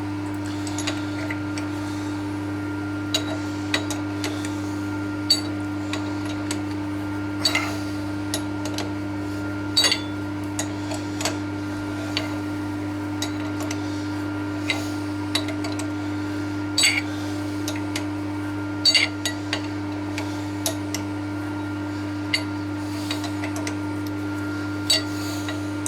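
Irregular light metallic clinks and taps, metal tools knocking on metal, over a steady low machine hum.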